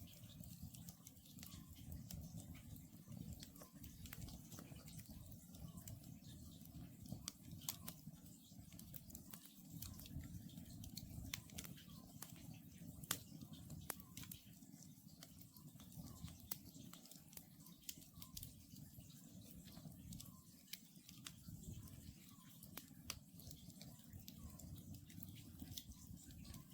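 Wood campfire crackling, with many small irregular pops over a low steady rumble of the flames. An oriental scops owl calls faintly in the distance, short notes repeated about once a second.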